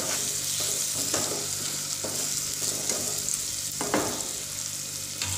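Cooked spiny gourd (kantola) sabzi sizzling steadily in a pan on the flame, with a spatula scraping through it a few times. The vegetable is fully cooked and ready to dish out.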